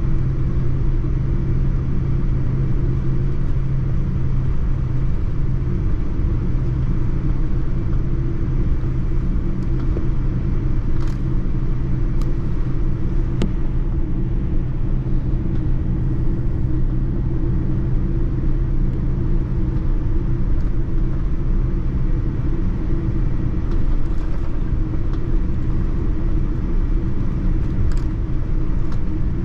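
Steady low rumble of a Boeing 787-9 airliner heard inside the cabin, engine and airflow noise with a constant low hum, and a few faint ticks.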